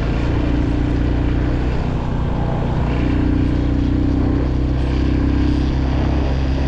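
Motorcycle engine running steadily while riding, a constant low drone with a hiss of rushing air over it.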